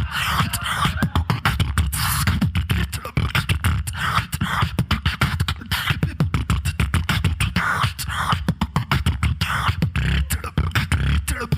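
Solo human beatboxing through a sound system: fast, dense clicks and snare-like hits over a continuous deep bass line.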